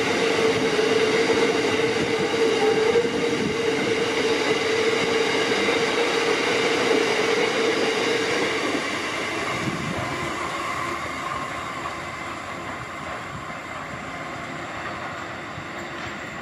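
Coal hopper wagons of a long freight train rolling past on the rails, a steady rumble with a high steady whine. About halfway through the whine stops and the rumble fades as the train draws away.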